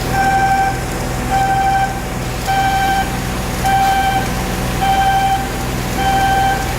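Electronic warning beeper sounding six even beeps, about one a second, each lasting about half a second, over a steady low machinery hum.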